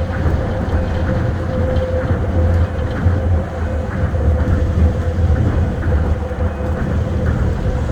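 Tokyo Monorail 1000-series train running along its track: a steady low rumble from its rubber tyres on the concrete guideway beam, with a steady tone above it.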